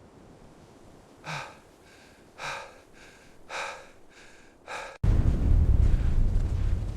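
Four heavy, gasping breaths about a second apart, then loud, low wind buffeting that cuts in abruptly about five seconds in.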